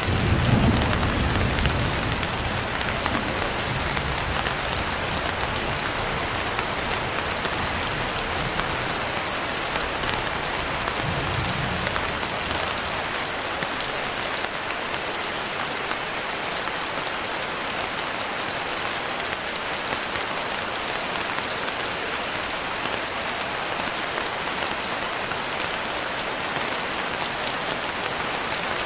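Steady, heavy rain falling, with a low rumble of distant thunder at the start that fades over the first few seconds and a fainter rumble around ten seconds in.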